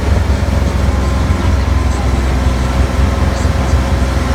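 Tourist road train running steadily, its engine a constant low hum under road and rolling noise.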